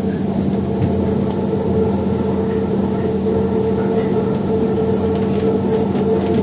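Metro train running between stations, heard from inside the carriage: a steady hum of the traction equipment with rumbling wheels on the rails.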